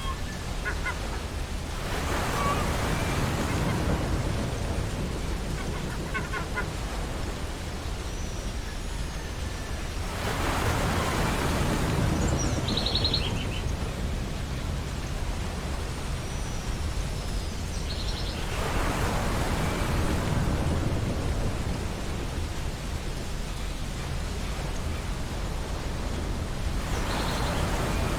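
Ocean waves washing onto a beach, swelling in and falling back about every eight seconds over a steady hiss of surf. Short, faint bird calls are heard now and then.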